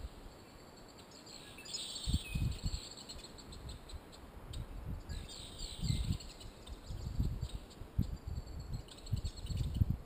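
A songbird singing two short phrases of quick high notes, the first about a second in and the second around five seconds in, over intermittent low rumbles.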